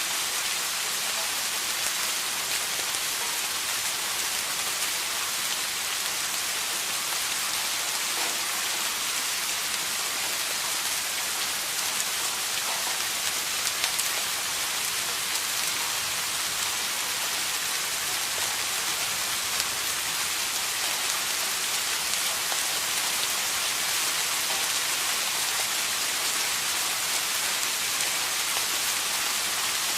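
Steady rain falling, a continuous even hiss of many drops with scattered individual drop taps and no thunder.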